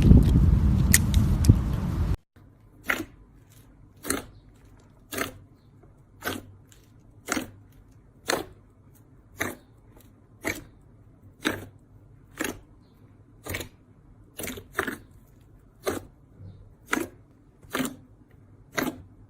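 Slime being handled by hand: a loud, dense stretch of sound for about two seconds, then after an abrupt cut a series of short sticky pops about once a second.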